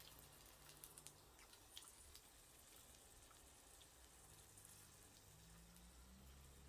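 Faint, irregular crackling and ticking from a small twig fire in a camping wood stove cooking sausages, with a soft hiss underneath.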